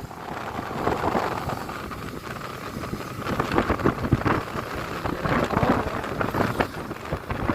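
Wind buffeting the microphone on a moving motorcycle, with the motorcycle's running and road noise underneath.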